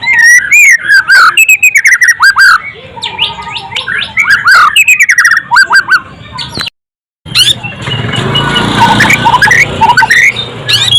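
White-rumped shama (murai batu) singing loudly: quick, varied phrases of sweeping whistles and sharp chirps. The sound cuts out completely for about half a second just past the middle, then the song carries on over a noisier background.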